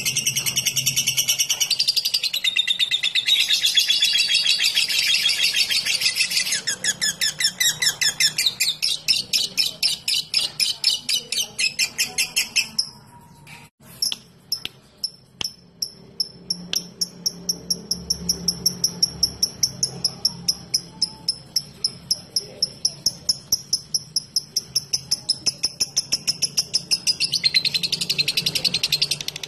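Lovebird calling: a dense high chattering run, then long strings of quick sharp repeated notes at about five a second, the 'ngetik' (typing) call that keepers play to prompt lovebirds into a long trill. About halfway through the notes break for a moment with a few clicks, and near the end the dense chattering returns.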